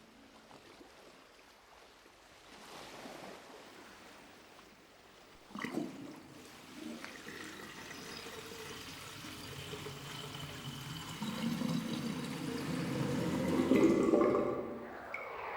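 Water trickling and splashing, faint at first and growing louder, with a sharp knock about five and a half seconds in.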